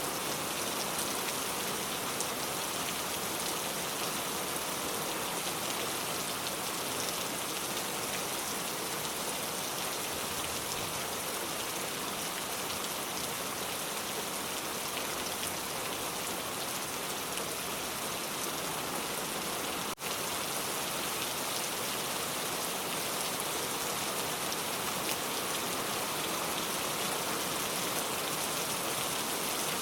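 Steady rain falling, an even dense hiss of drops, with a momentary dip in level about two-thirds of the way through.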